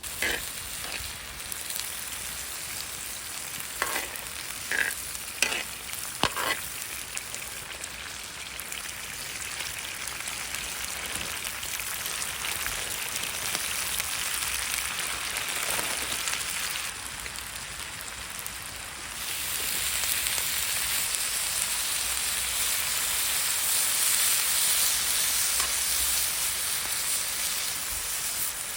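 Food sizzling in a frying pan, a steady hiss that grows louder about two-thirds of the way through, with a few sharp clicks of a utensil against the pan early on.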